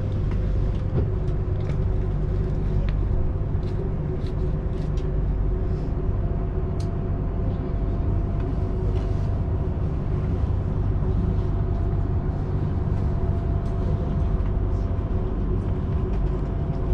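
Cabin running noise of an SNCB Class 96 (AM96) electric multiple unit under way: a steady low rumble from the wheels on the rails with a faint steady hum, and scattered light clicks and rattles.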